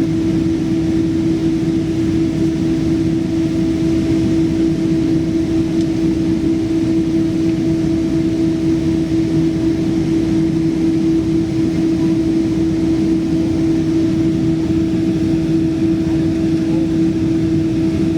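Boeing 777-200's twin jet engines running at a steady setting, heard from inside the cabin as a loud, even roar with a constant hum.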